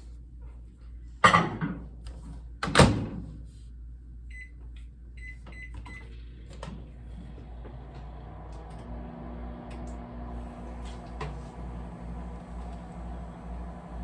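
Microwave oven being started: two sharp clunks, then four short keypad beeps, after which the oven runs with a steady hum.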